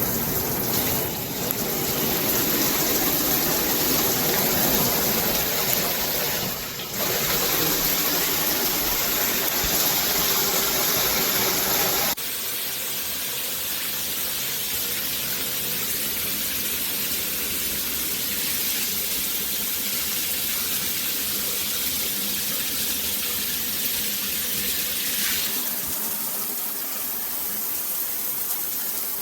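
Water spraying steadily from a shower head. The sound changes abruptly about twelve seconds in, becoming lighter and thinner, and shifts slightly again near the end.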